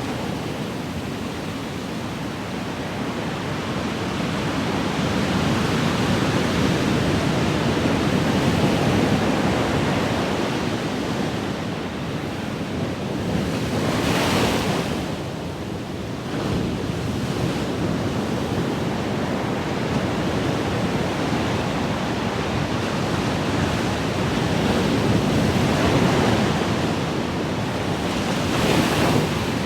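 Ocean waves breaking and washing in, a continuous rush of surf with brief brighter hissing surges about halfway through and near the end.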